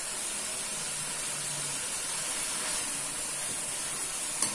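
Chicken korma masala sizzling steadily as the chicken fries in ghee over a low flame, at the stage where the ghee has begun to separate from the masala. A short sharp click comes near the end.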